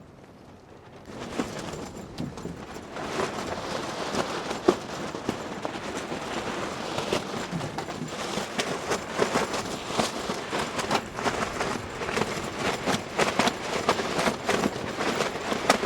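Strong, gusty wind buffeting the microphone, with a dense rush and many irregular crackles and snaps, starting about a second in.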